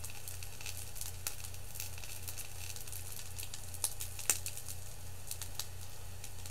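Cheese-filled onigiri frying on an electric skillet: a soft sizzle with scattered crackles and small pops over a steady low hum, with two louder pops a little past the middle.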